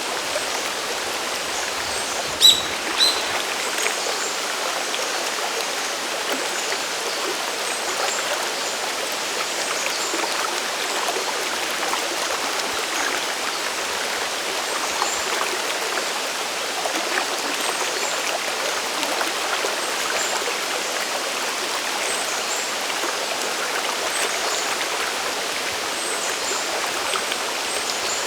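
Mountain waterfall and stream water rushing steadily. Two sharp clicks come half a second apart about two and a half seconds in.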